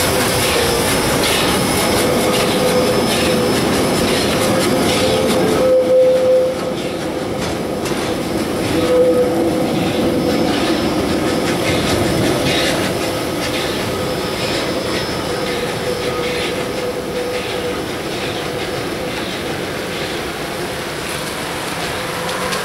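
Steam train with vintage carriages rolling past on street-running track, wheels clicking over the rail joints, with a steady squeal that swells twice, about six and nine seconds in. The sound eases off a little after the first six seconds as the train goes by.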